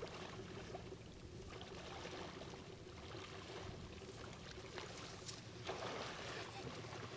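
Faint, irregular sloshing and splashing of a person wading through shallow water in waders.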